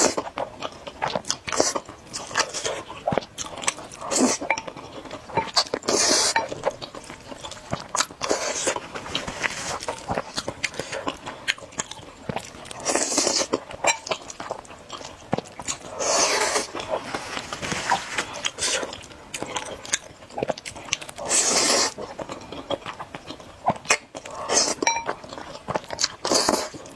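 Close-miked eating of noodles: wet chewing and smacking clicks throughout, with about six louder slurps lasting a second or so each, spread every few seconds.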